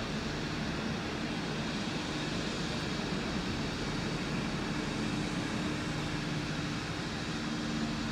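Steady rumble with a low hum as a rake of heritage passenger carriages rolls slowly along the track.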